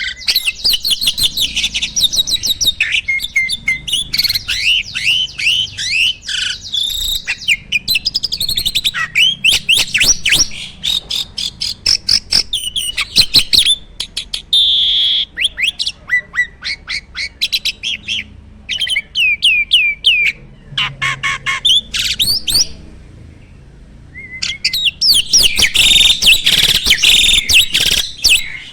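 A jalak (starling) singing almost non-stop in fast runs of chirps, trills and gliding whistles, a varied song packed with mimicked calls ('full isian'). There is a brief lull about three-quarters of the way through, then a dense burst near the end.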